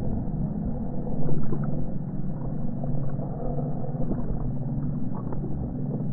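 Eerie ambient soundscape: a low rumbling drone with steady hum tones underneath and scattered faint crackles, swelling briefly about a second in.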